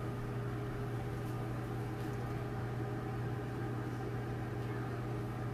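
Steady electrical hum of a running microwave oven, a constant low drone with a faint hiss.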